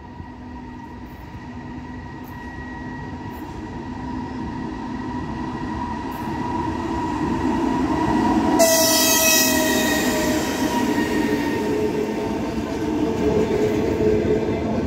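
EP2K electric locomotive hauling a passenger train, approaching and passing close by, growing steadily louder as it nears. About eight and a half seconds in, a sudden loud rush of noise comes as the locomotive goes past, and a tone in its sound drops in pitch. The coaches then keep rolling by.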